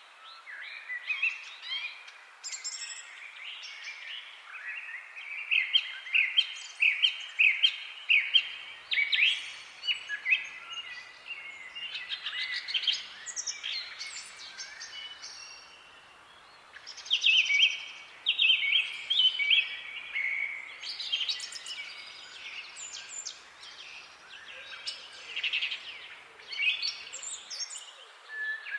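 Several birds chirping and calling together in a busy chorus of quick, repeated high notes and short trills, over a faint steady background hiss.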